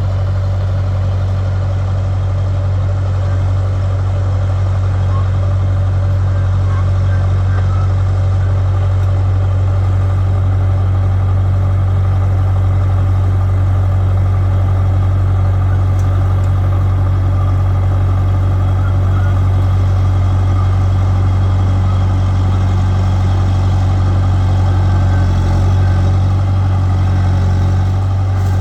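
Bulldozer's diesel engine running steadily, a low, even drone that starts abruptly and holds at a constant pitch and level.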